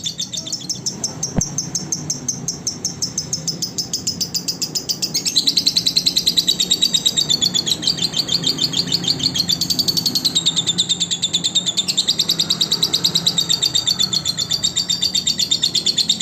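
Lovebird singing a long, unbroken chattering trill of fast, even, high chirps, growing louder about five seconds in.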